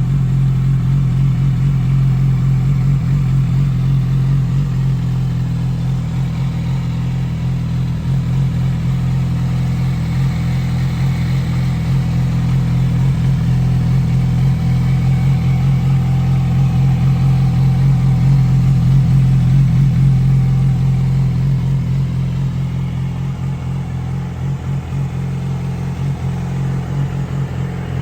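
2007 Yamaha YZF-R6's inline-four engine idling steadily through a GYTR exhaust system, easing slightly in loudness near the end.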